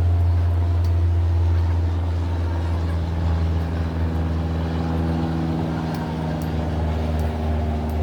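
A motor running steadily with a loud low hum, its pitch drifting slightly up and down.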